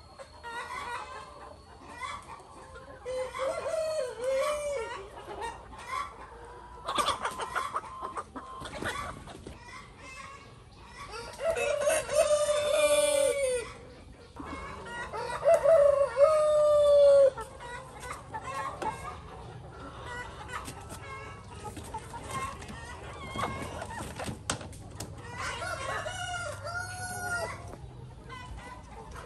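Birds calling: a series of pitched calls. The two loudest come about halfway through, each lasting one to two seconds.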